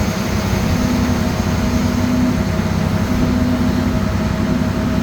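Diesel engine of a Cat 725C articulated haul truck running steadily: a low drone with a faint steady whine above it.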